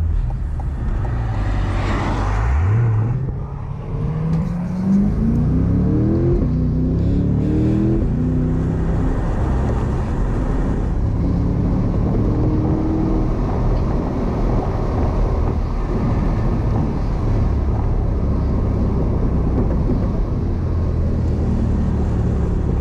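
V8 sports car engine pulling away, rising in pitch through a few quick upshifts a few seconds in, then settling into a steady cruising drone.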